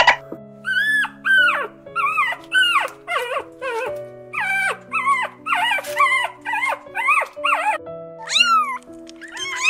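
Puppies yelping and whining in a rapid series of short, rising-then-falling cries over soft background music with held notes. Near the end a kitten meows.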